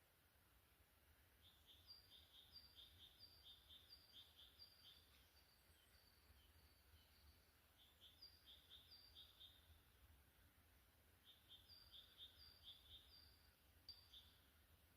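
Faint song of a small bird: three runs of quick, high, repeated two-note phrases, each run a couple of seconds long, over a low hum.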